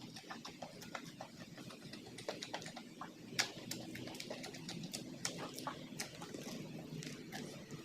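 A person eating with the mouth close to the microphone: irregular wet clicks, smacks and crunches of chewing, several times a second, with one sharper crunch about three and a half seconds in.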